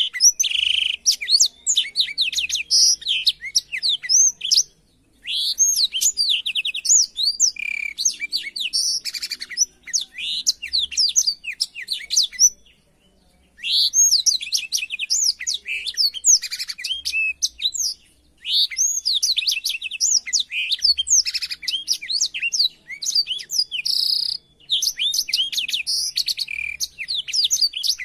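Black-throated canary (blackthroat) singing a fast, continuous song of high, sweeping chirps and trills, broken by two brief pauses, one about a sixth of the way in and one near the middle.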